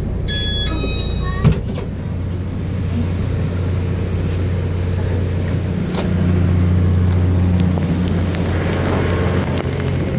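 Train at a station platform: a steady low machinery hum with a hiss over it, and one sharp thump about one and a half seconds in. The hum grows louder about six seconds in as a train moves past.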